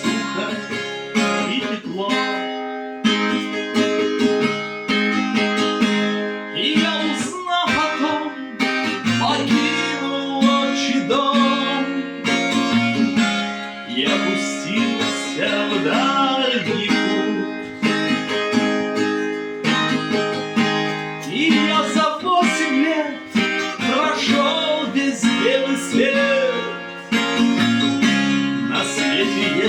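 Music: a song on acoustic guitar, with strummed and plucked chords.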